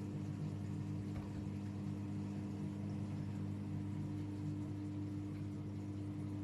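AEG Öko-Lavamat 76910 washing machine running with a steady, even hum.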